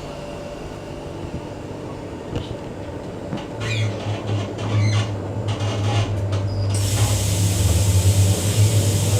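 Queensland Rail electric multiple unit train pulling away from a station, heard inside the carriage. A few clicks and clunks come first, then the traction drive's low hum builds and grows louder. A whine starts to rise in pitch near the end.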